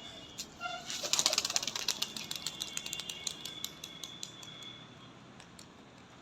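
Pigeons flapping their wings: a rapid run of wing claps starts about a second in, then thins out and stops a few seconds later. A thin high tone sounds alongside the flapping.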